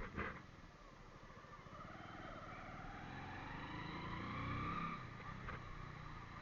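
A motorcycle engine pulling, its pitch slowly rising and its sound growing to a peak about four seconds in before dropping away. A sharp click comes at the very start.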